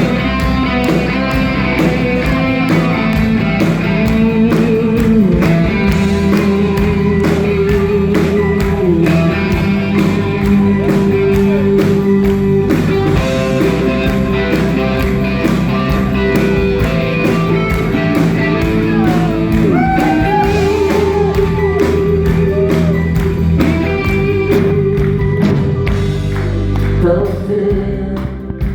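Live rock band playing an instrumental intro: a steady drum beat under sustained guitar and keyboard lines, with a melodic line bending up and down about two-thirds of the way through.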